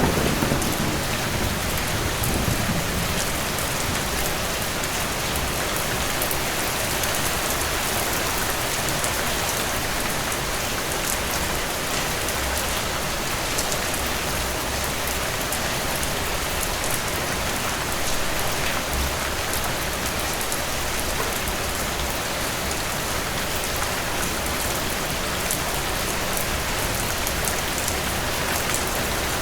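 Steady rain falling and pattering on surfaces, with a distant thunder rumble dying away in the first couple of seconds.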